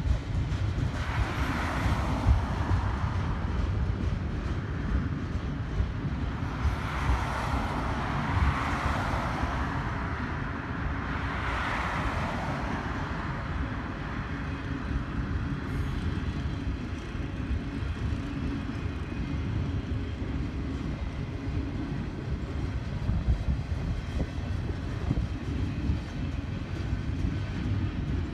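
Double-stack container train's well cars rolling past: a steady low rumble of steel wheels on rail. A higher hiss swells and fades three times in the first half.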